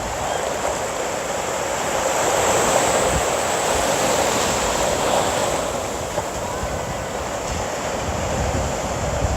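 Ocean surf washing ashore, a steady rushing that swells a couple of seconds in and eases again.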